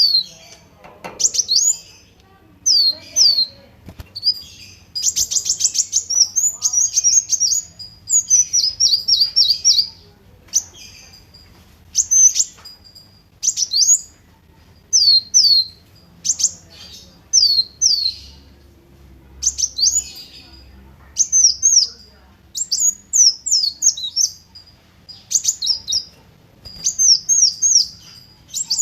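Kolibri wulung, a sunbird, singing: phrases of high, thin notes that each slide quickly downward, given in quick runs with short pauses between. About five seconds in there is a fast buzzy trill.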